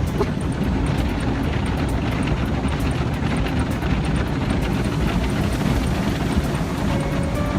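Automatic car wash machinery running, heard from inside the car: a loud, steady rumbling rush of water, brushes or blowers.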